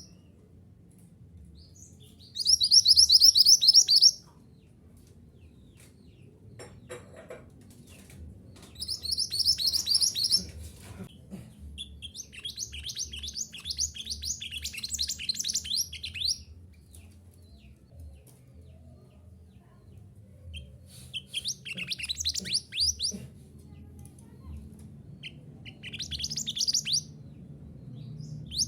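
Minivet ('mantenan gunung') singing: bursts of rapid, high, thin chirps lasting one to four seconds, repeated about six times with short pauses between them, over a faint low hum.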